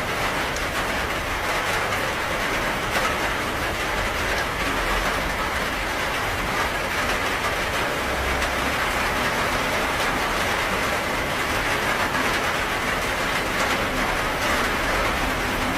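Steady rain falling: an even hiss with a low rumble underneath and faint scattered drop ticks.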